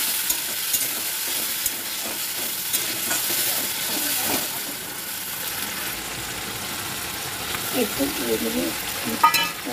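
Potatoes and spice paste sizzling as they fry in a metal pan, with a metal spatula stirring and clicking against the pan every second or so. This is the stage of frying the masala down (kasha). There is a louder clink near the end.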